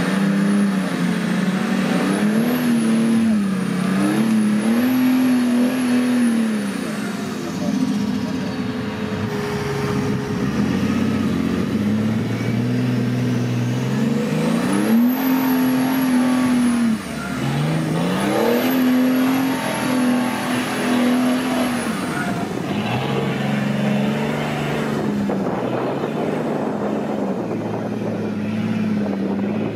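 Off-road 4x4 engine revving up and easing off again and again, with a thin high whine that rises and falls with the revs.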